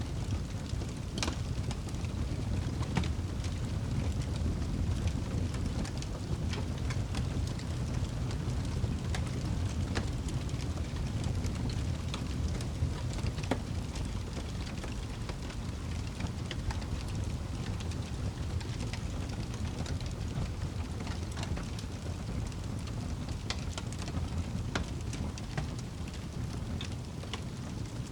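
Wood fire burning in a fireplace: a steady low rumble of flames with frequent, irregular crackles and pops from the logs.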